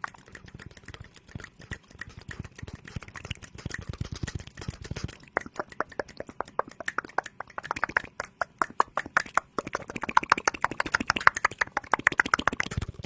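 Close-miked ASMR trigger sounds: a fast, continuous run of small clicks and taps, growing louder about five seconds in and louder again near eight seconds.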